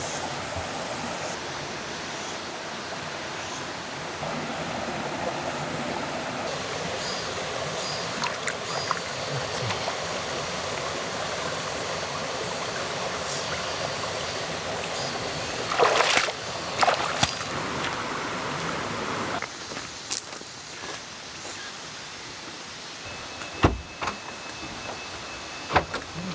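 A valley stream running with a steady rush of water. About sixteen seconds in there are a few sharp knocks. A few seconds later the rush drops away to a quieter background, broken by a few short clicks and knocks.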